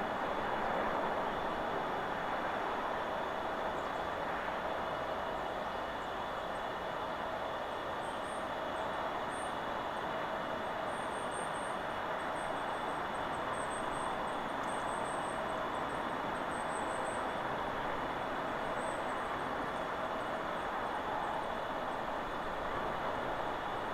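Steady rushing of wind through forest trees, with faint high-pitched chirps of small birds scattered through the middle.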